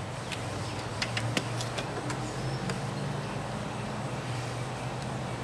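Steady low hum of an idling engine, with a few light clicks and taps in the first couple of seconds as the cap is worked off the A/C low-pressure service port.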